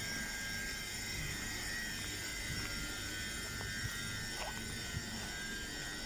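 London Overground electric train standing at the platform, its onboard equipment giving a steady hum and low rumble with several high, even whining tones.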